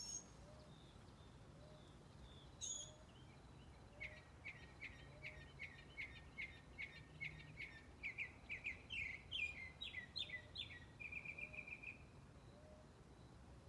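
Songbird singing: a couple of sharp chirps, then a run of notes that quickens and climbs in pitch and ends in a fast trill about three-quarters of the way through. A fainter, lower call repeats about once a second underneath.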